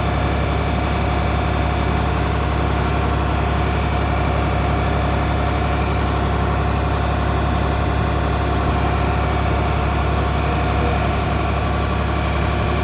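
John Deere tractor engine running steadily at a constant, low speed.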